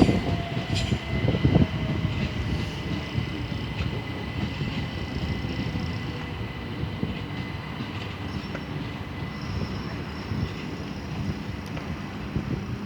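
Electric passenger train moving through the station: wheels knocking over the rail joints, with a steady high-pitched whine and a lower whine that slowly falls in pitch over the first several seconds. It is loudest near the start, then settles to a steady run.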